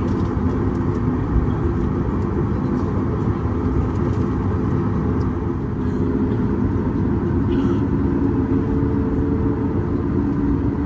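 Cabin noise of a Boeing 737 MAX 8 taxiing: its CFM LEAP-1B turbofans run steadily over a low rumble, with a few steady engine tones and no spool-up.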